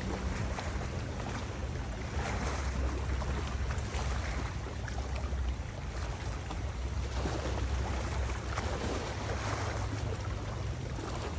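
Wind buffeting the microphone with a low rumble, over the rush of river water that swells and fades every few seconds.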